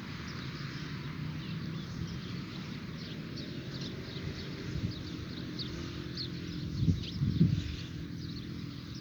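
Birds chirping in many short, falling high calls over a steady low rumble, with a few louder low bumps about seven seconds in.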